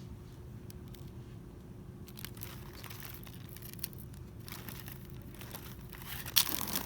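Plastic crinkling and rustling in short, scattered bursts, with a sharp, louder crackle near the end, over a steady low hum.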